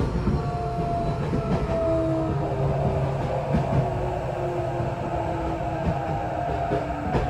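Tokyo Metro 8000 series train running, heard from inside the car: a steady rumble of wheels on rail. Over it come a few short, slightly falling whining tones from the Mitsubishi IGBT-VVVF inverter traction motors.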